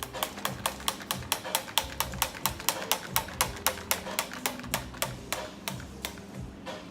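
Cocktail shaker shaken hard, giving a fast, even rattle of knocks about five to six a second. This is a dry shake of the egg-white mix before ice goes in, to froth the egg white.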